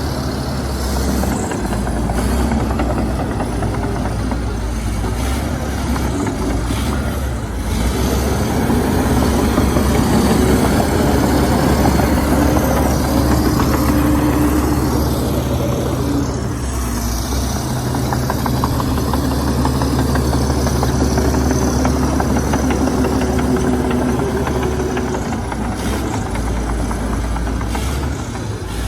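Komatsu D61EX bulldozer's diesel engine running steadily, its note and load rising and falling as it works.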